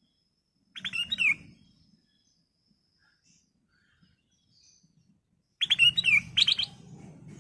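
Black-crested bulbul (kutilang emas) singing. It gives a short phrase of quick notes about a second in, then a longer phrase near the end, with a low rumble under each phrase.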